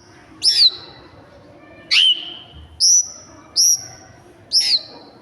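A bird calling five times, each a loud, sharp whistled note that sweeps quickly down and then levels off, spaced about a second apart.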